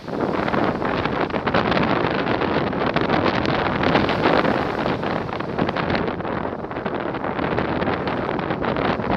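Wind buffeting the microphone, a loud, rough, fluttering rush that keeps up throughout.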